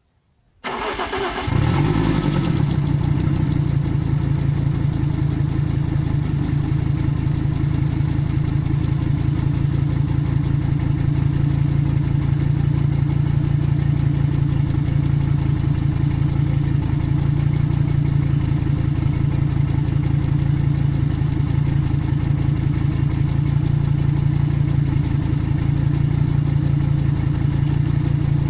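Fiat Coupe 2.0 20V Turbo's turbocharged inline five-cylinder engine cranking and catching about a second in, then idling steadily. It is the first start after an engine replacement.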